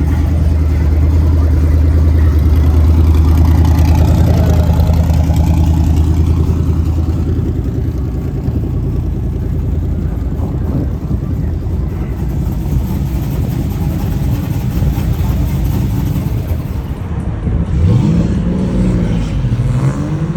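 Car engine running with a steady low exhaust rumble that fades after several seconds; near the end an engine revs, its pitch rising.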